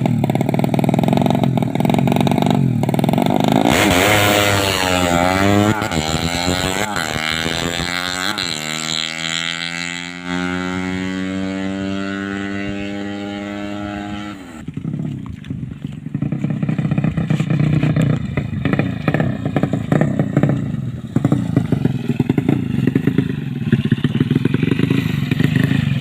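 130cc horizontal-cylinder drag-bike engine running on the stand during tuning, revved so its pitch swings up and down, then held at a steady, slowly sinking note. About halfway through it drops back to a rougher, clattery running sound.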